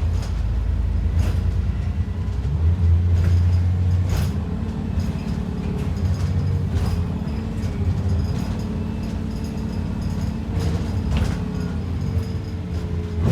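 Inside an ADL Enviro 400 double-decker bus under way: the engine drones steadily and swells louder a few seconds in, with sharp knocks and rattles from the body and fittings every few seconds.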